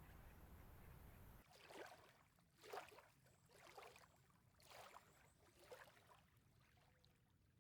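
Near silence: a low hum cuts off about a second and a half in, followed by five faint, soft swishes, roughly one a second.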